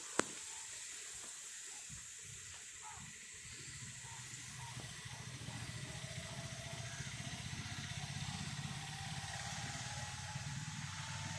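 Steady outdoor hiss with a sharp click near the start, then a motor vehicle's engine growing gradually louder from about a third of the way in.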